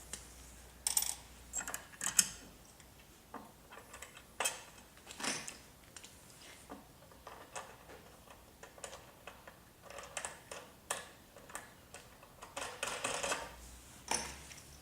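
Hand assembly of a router table fence: bolts, knobs and plastic and metal parts being handled and fitted, giving irregular clicks, taps and short rattles.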